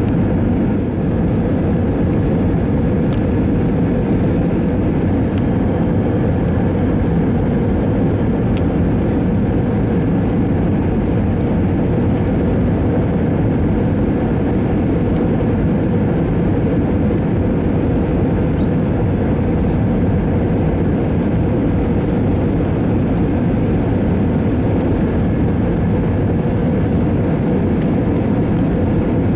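Steady cabin noise inside an Airbus A321-200 airliner in motion: a loud, even rumble of engines and airflow with a steady low hum.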